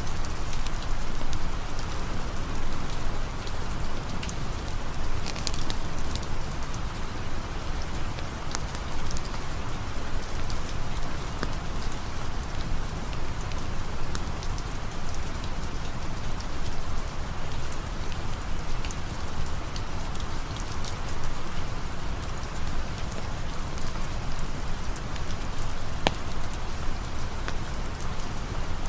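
Steady rain falling, a dense even hiss with many scattered sharp ticks of single drops.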